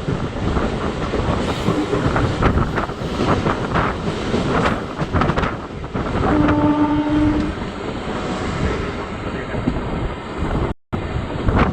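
MEMU electric multiple-unit train running at speed, its wheels clattering over the rail joints, with a horn sounding for about a second around the middle. The sound cuts out for a moment near the end.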